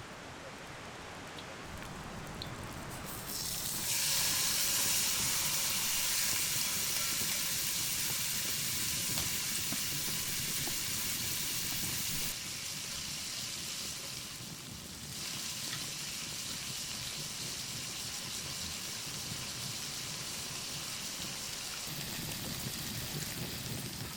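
Meat sizzling loudly as it cooks over the heat, the hiss starting suddenly about four seconds in when the meat goes on, then carrying on steadily with a few shifts in level.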